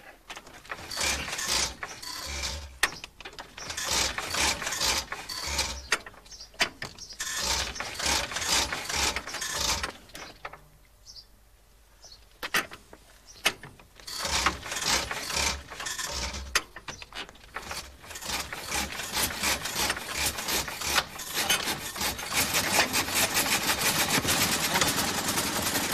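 1902 Wolseley engine being hand-cranked with its starting handle on half compression: irregular clicking and knocking, a short lull, then more cranking. Over the last few seconds the engine catches and settles into a fast, even run of firing beats.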